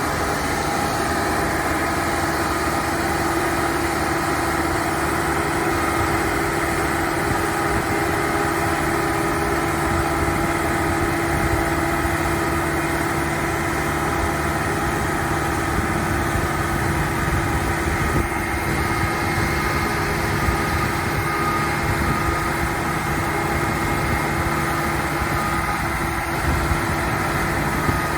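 An engine idling steadily, an even drone with a constant pitch that does not change.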